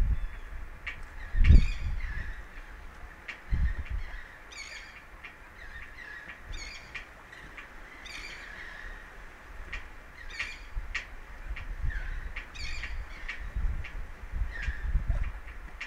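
Birds giving repeated harsh calls, a new call every second or two, over a steady background hiss, with a few bursts of low rumble.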